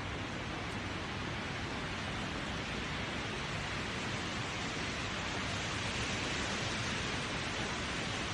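Wind blowing through tree leaves: a steady rustling hiss that swells a little past the middle.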